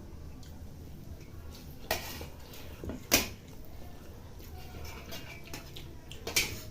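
Dishes and eating utensils clinking and knocking a few times while people eat, three sharp knocks with the loudest about three seconds in, over a faint steady hum.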